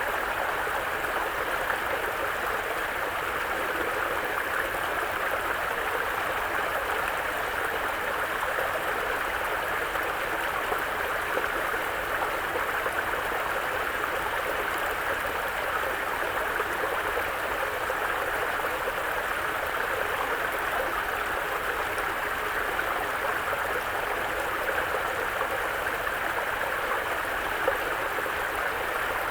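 Mountain brook running over stones: a steady burbling rush of water with no change in level.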